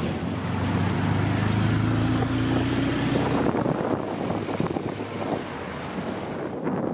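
Engine of a neo-classic roadster running close by as it pulls away, its note rising slightly. About halfway through it gives way to quieter street noise and a classic Porsche 911's engine as the car drives off.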